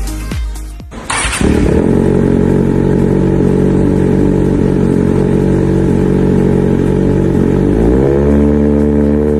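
Kawasaki ZX-6R inline-four engine through an Arrow aftermarket exhaust starts up about a second in and idles steadily, then rises to a higher, held engine speed about eight seconds in. Electronic music fades out in the first second.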